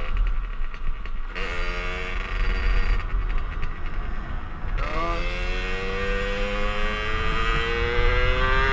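Motorcycle engine accelerating hard, its pitch climbing steadily and dropping at gear changes about a second and a half in and again about five seconds in, over a steady low rumble.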